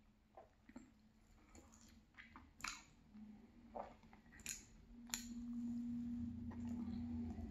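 Close mouth sounds of a person eating soft marble cake: scattered wet clicks and lip smacks while chewing and biting. About five seconds in, a steady low hum comes in and carries on.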